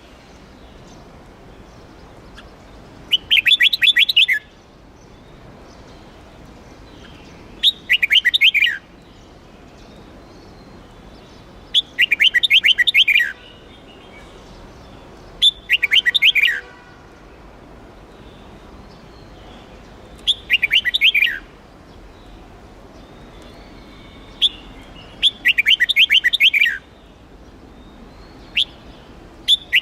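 Red-whiskered bulbul singing: seven short, loud phrases about four seconds apart, each a quick run of notes that drop in pitch.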